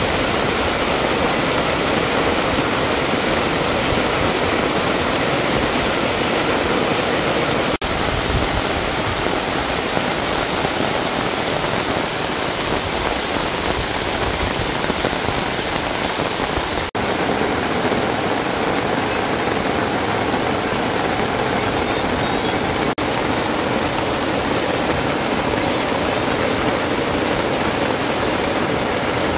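Heavy rain falling steadily on a camping tarp overhead and the waterlogged ground, with runoff pouring off the tarp's edge.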